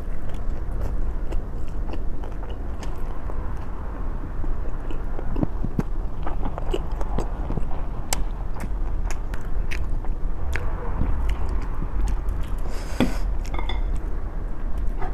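A person chewing and biting food close to the microphone, with many small wet clicks and crunches throughout. A brief hiss comes about 13 seconds in.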